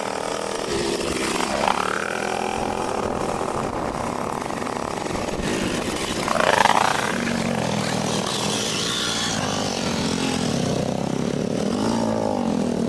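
Sidecarcross outfits' motorcycle engines running as the outfits ride past one after another. The engine note rises and falls with each pass, and the loudest passes come about a second and a half in and about six and a half seconds in.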